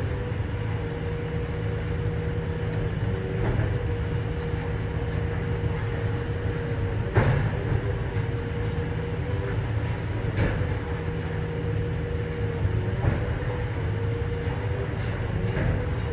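Idromec T 650 CLS hydraulic scrap metal shear baler running with a steady low hum, broken by occasional sharp metal clanks, the loudest about seven seconds in.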